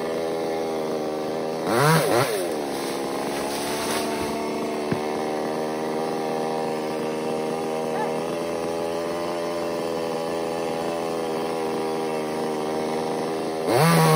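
Chainsaw engine idling steadily, revved up briefly about two seconds in and again near the end. There is a single sharp click in between.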